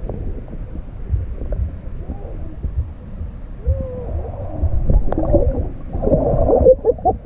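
Muffled water sounds, gurgling and sloshing, heard through a camera under or at the water, with wavering, whale-like tones that swell about four seconds in.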